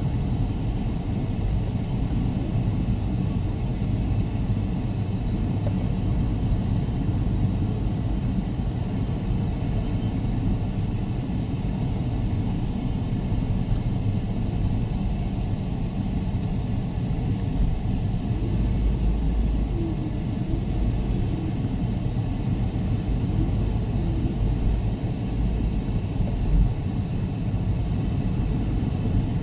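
Steady low rumble of wind buffeting the microphone at the seashore, swelling in gusts around the middle and near the end.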